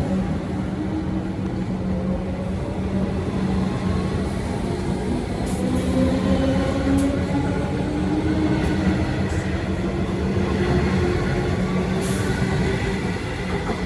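Melbourne electric suburban train running through the station, a steady hum under a motor whine that rises slowly in pitch as it gathers speed, with a few light clicks.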